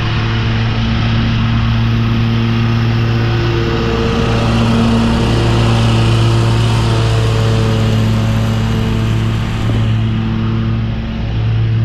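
Commercial lawn mower engine running steadily under load while mulching leaves, its pitch shifting slightly now and then, with the noise of the cutting deck underneath.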